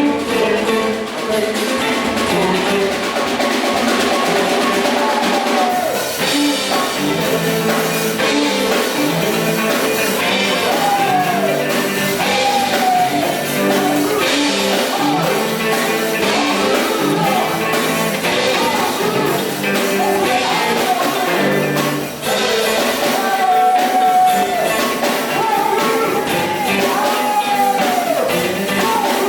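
Gospel music with a singer whose voice slides between held notes over a band playing bass and drums.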